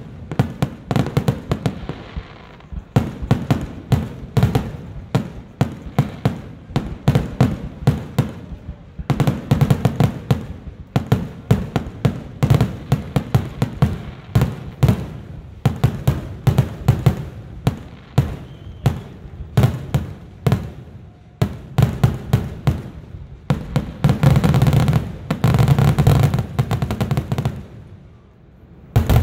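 Aerial fireworks display: a rapid, unbroken string of shell bursts and bangs. About three-quarters of the way through it thickens into a dense volley, then falls away near the end.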